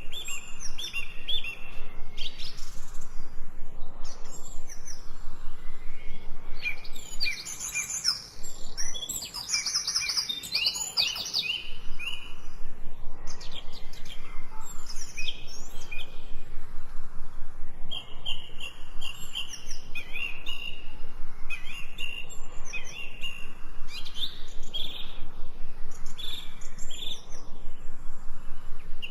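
Songbirds chirping and calling, with many short, quickly repeated high chirps and trills overlapping; the calling is busiest about a third of the way in.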